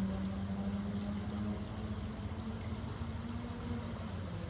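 A steady motor drone holding one low pitch over a low rumble, growing fainter in the second half.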